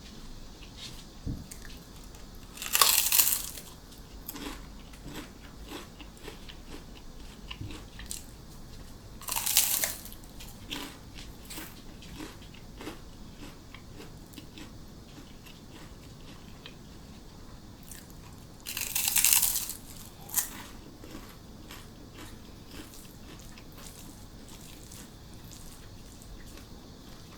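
Close-up eating sounds: three loud, brief crunches of crisp food being bitten, about 3, 9.5 and 19 seconds in, a smaller one just after the last, with quiet chewing between.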